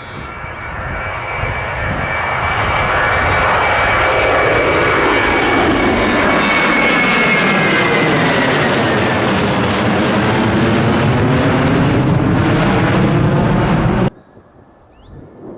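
Jet airliner's engines passing close by on the runway: a loud, rising engine noise with a high whine that drops in pitch as the aircraft goes past, then cuts off abruptly near the end.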